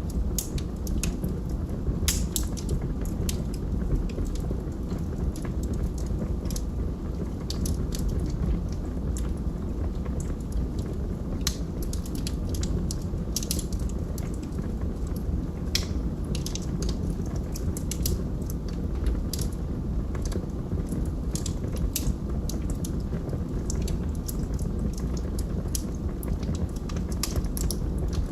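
Log fire crackling: frequent sharp, irregular pops and snaps over a steady low rumble.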